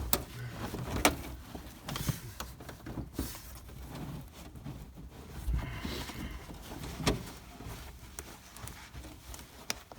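Irregular knocks and clunks with scraping and rustling, from old carpet being pulled up off a car's floor pan. The sharpest knocks come about a second apart early on and once more about seven seconds in, with a burst of scraping around the middle.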